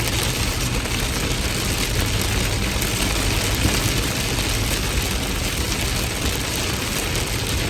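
Heavy rain pouring steadily, a dense even hiss with a deep rumble underneath.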